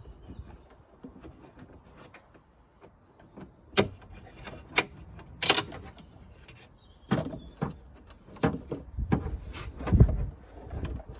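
Irregular sharp clicks and knocks of hand-worked parts inside a car door as the door handle and lock are freed, with a dull thump about ten seconds in.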